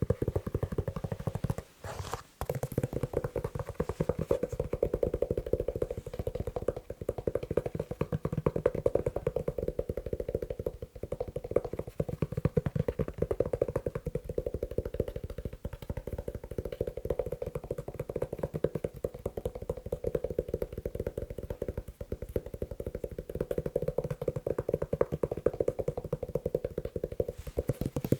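Fast tapping on a leather shoe: a dense, rapid run of taps that pauses briefly about two seconds in.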